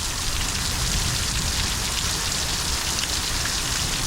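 Heavy thunderstorm downpour: dense, steady rain hiss with no let-up.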